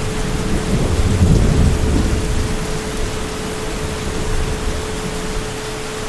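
Heavy rain falling steadily, with a deep rumble of distant thunder that swells in the first couple of seconds and then fades away.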